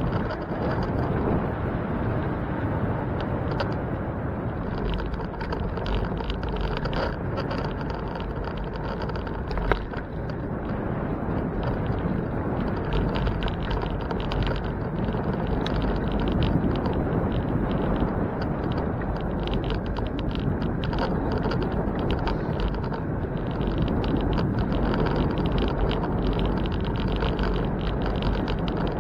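Steady wind and road rumble of a bicycle ride, with traffic noise mixed in and a single sharp knock a little under ten seconds in.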